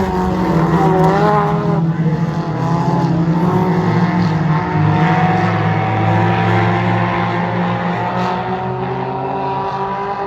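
Several Hornet-class race cars' engines running hard around a dirt oval, their pitch rising and falling as they go through the turns.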